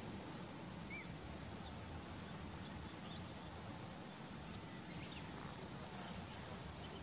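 A few faint, short bird chirps scattered over a steady low background hum.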